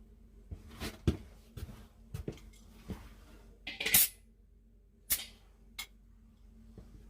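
Irregular light clinks and knocks, with a short hissing burst about four seconds in, over a faint steady hum.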